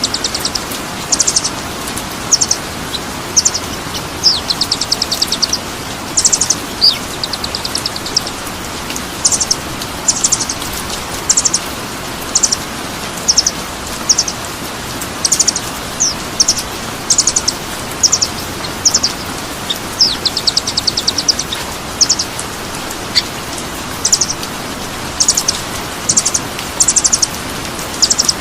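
Recorded songbird calls for training caged birds: short, high, rapid rattling trills repeated about once a second, over a steady hiss like rain.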